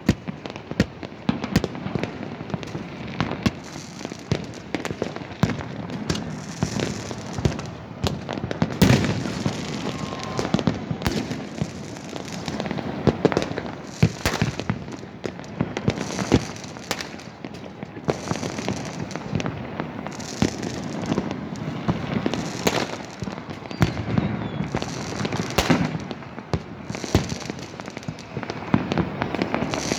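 Fireworks going off without a break: many overlapping sharp bangs and crackles at irregular intervals, several a second, with hissing fizz and the occasional louder boom.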